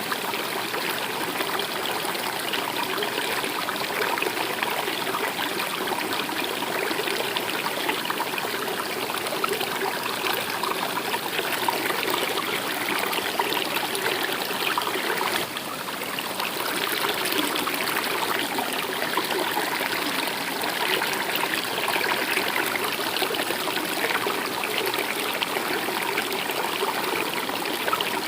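Stream water flowing and trickling over rocks in a steady, even rush.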